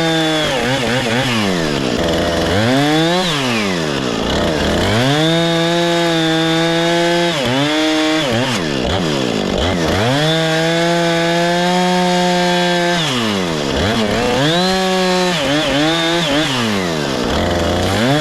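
Two-stroke chainsaw revved up several times. Each time it rises to high speed, holds there for a second or up to about three seconds, then drops back to idle. The longest holds come about five and ten seconds in.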